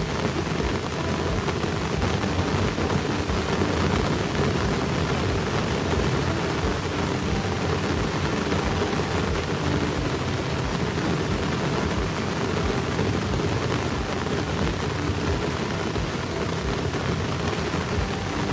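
Heavy rain pouring in a steady, loud hiss, with many close raindrops ticking and tapping near the microphone.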